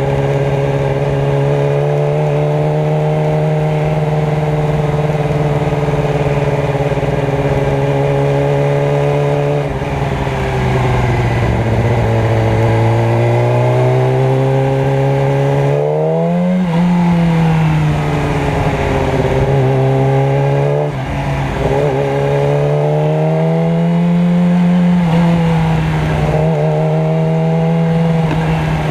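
Motorcycle engine running steadily under way, its pitch slowly rising and falling with the throttle, with a quick rev and drop about halfway through.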